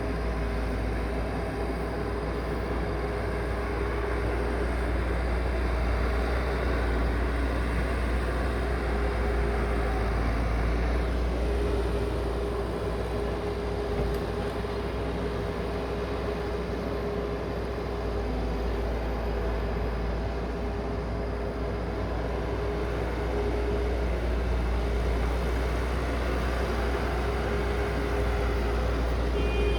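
A heavy machine's engine running steadily: a deep, even rumble with a steady hum over it.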